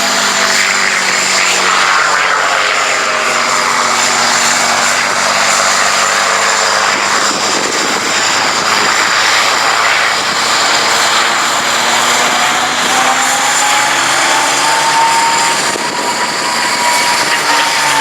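P-51 Mustang's Merlin V12 engine on a display pass, its note sliding down and then up as it moves across. A thin whistling tone, characteristic of the Mustang, rises and falls over the last few seconds.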